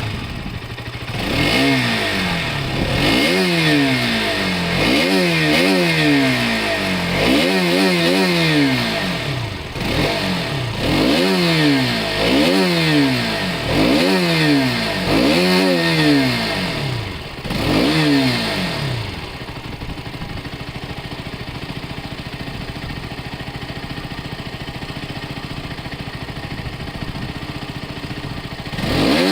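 Motorcycle engine, just started, revved over and over in quick throttle blips, each rising and falling in pitch. After about nineteen seconds it settles to a steady idle, then revs once more near the end.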